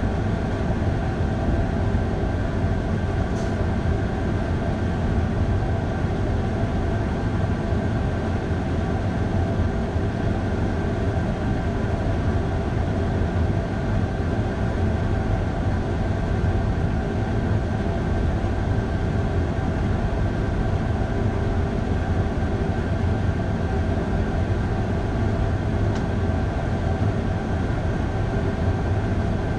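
Electric train climbing through a rock tunnel on the Flåm Line: a steady running rumble with steady humming tones over it, and a couple of faint ticks.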